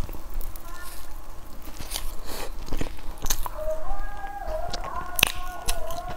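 Close-up eating sounds: a bite into a soft, crumb-coated cream-filled sponge cake, then wet chewing with scattered sharp clicks and smacks.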